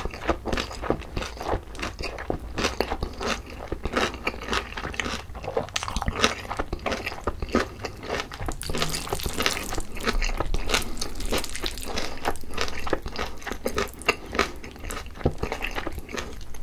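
Close-miked chewing of a mouthful of spicy boneless grilled chicken mixed with rice, a steady run of small wet, crisp clicks and smacks.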